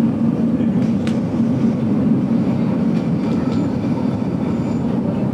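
Steady rumble of a passenger train running along the track, heard from inside a carriage, with a few faint clicks from the wheels and car, one about a second in.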